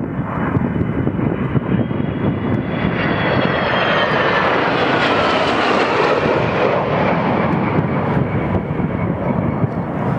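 Airplane flying past. Its engine noise swells to a peak about halfway through and then eases, and a whine falls steadily in pitch as it passes.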